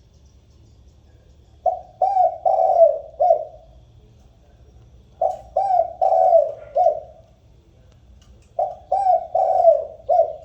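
Spotted dove (chim cu gáy) cooing: three phrases of four short coos each, about three and a half seconds apart, the flock-calling song used to lure wild doves.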